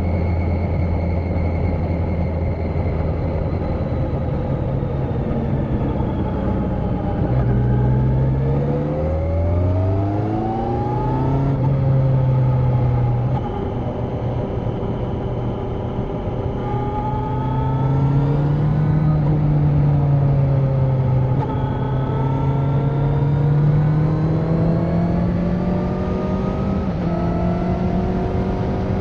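Kawasaki Z900's 948 cc inline-four engine, with its catalytic converter removed, running on the move. It holds steady, then revs climb sharply about ten seconds in and drop back, climb slowly again for a long stretch, and rise once more near the end.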